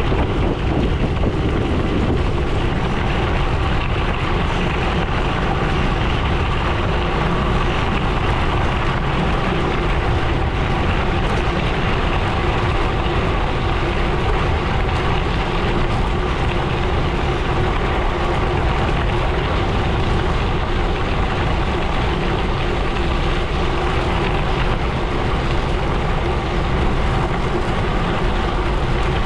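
Gravel bike tyres rolling over a gravel road: a steady, even rolling noise with wind on the microphone.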